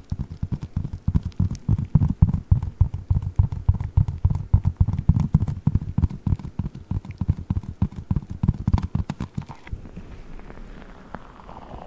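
Giant Orbeez water-bead ball squished and tapped close to the microphone: rapid, irregular soft low thumps that stop about ten seconds in.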